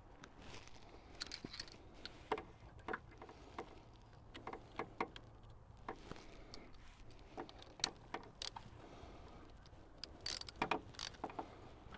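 Faint, irregular metallic clicks and ticks of hand tools working on a motorbike, with a closer run of sharper clicks about ten seconds in.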